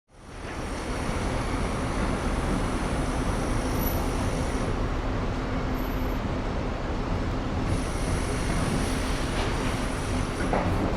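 Steady rumble of vehicle noise that fades in over the first second, with a faint thin high squeal that comes and goes.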